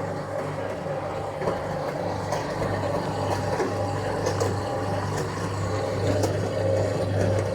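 1966 Bendix LA automatic washing machine running its final rinse: a steady machine hum whose low tone pulses on and off, with water noise and light clicks from the drum.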